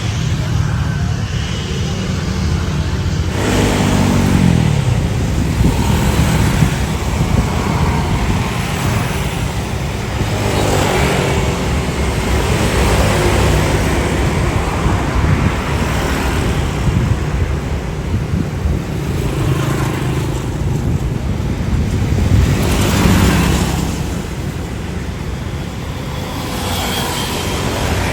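Road traffic: a steady low rumble with several vehicles passing one after another, one with a pitch that drops as it goes by about four seconds in.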